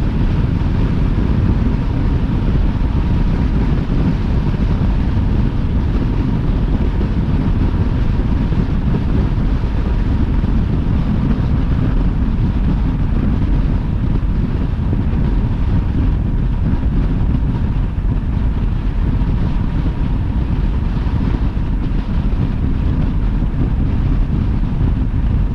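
Car driving at highway speed: steady road and wind noise.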